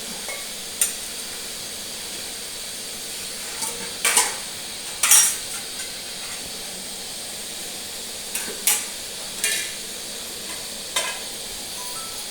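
A metal spoon stirring chicken in a cooking pan, scraping and knocking against it about six times at irregular intervals, over a steady sizzling hiss.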